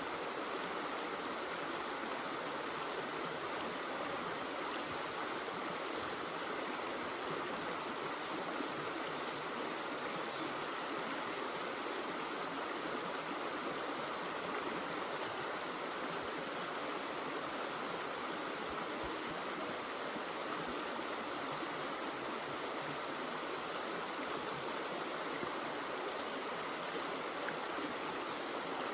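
A brook running steadily, its water making an even, unbroken rushing sound.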